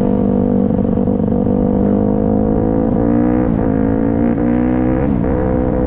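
Motorcycle engine running steadily while riding, its pitch dropping briefly and recovering three times in the second half, with wind rumble on the microphone.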